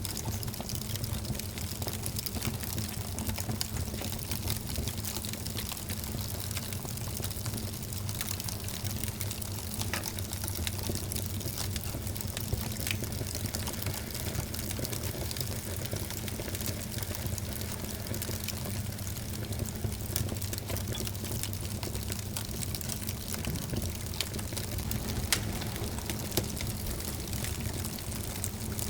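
Wood fire in a fireplace crackling steadily, with scattered sharp pops; one louder pop comes about three-quarters of the way through.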